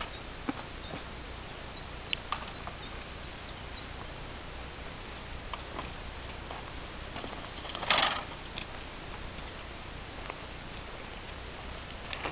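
Small birds chirping in the background: short high chirps, many in the first five seconds. About eight seconds in comes a brief, loud burst of rustling noise.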